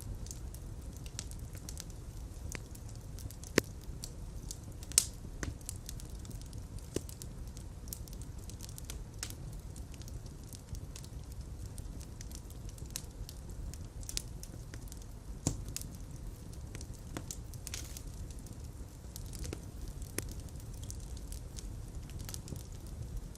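Fireplace fire burning: a steady low rumble of flames with irregular crackles and pops. The sharpest pops come about three and a half and five seconds in, and another at about fifteen seconds.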